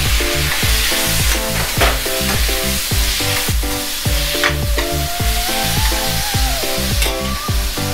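Raw shrimp sizzling in hot oil in a stainless steel frying pan, stirred and scraped with a slotted metal spatula. Background electronic music with a steady beat plays over it.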